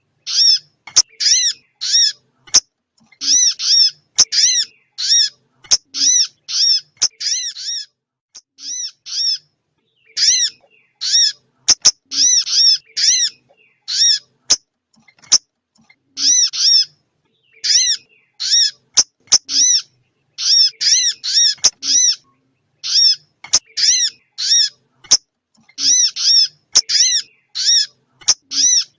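Recorded small-songbird calls played as a trapping lure: short, arched chirp notes repeated in quick runs of two to five, with brief gaps between runs and sharp clicks in between.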